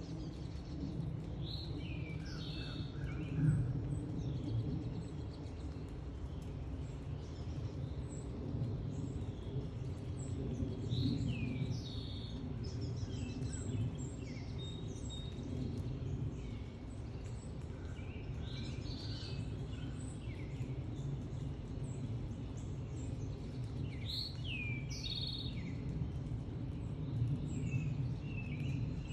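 Wild birds chirping and calling at intervals, some calls sliding downward in pitch and a few short runs of quick repeated notes, over a steady low rumble of outdoor background noise.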